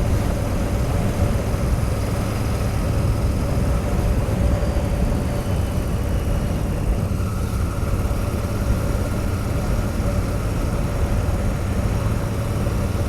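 Royal Enfield Continental GT650 parallel-twin engine running steadily at cruising speed, heard under heavy wind rush on the helmet-mounted GoPro microphone. A second, higher engine tone joins about seven seconds in.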